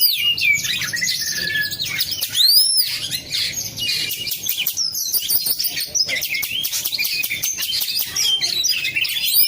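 Oriental magpie-robin (kacer) singing a fast, continuous, varied song of arching whistles and chirps.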